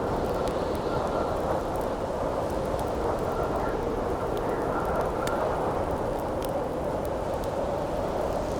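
Steady rushing wind with a faint whistle that comes and goes, over a campfire crackling with occasional sharp pops.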